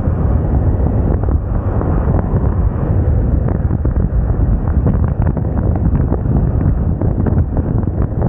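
Wind buffeting the microphone of a Moda Moca 110 scooter on the move, a loud, steady, gusty rumble with the ride's engine and road noise mixed in beneath.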